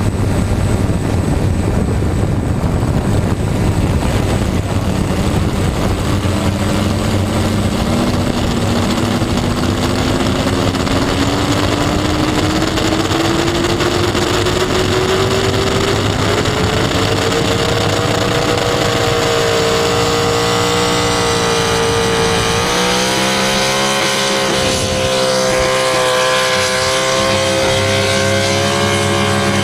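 Loud motor noise whose pitch climbs steadily for about twelve seconds, then holds high with a dense set of overtones.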